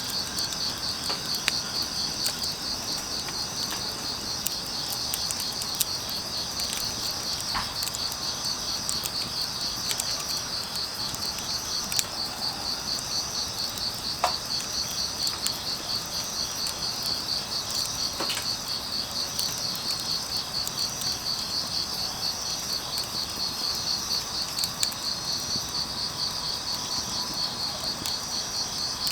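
Field crickets chirping in a steady, evenly pulsing high trill, with occasional sharp crackles and pops from burning firewood.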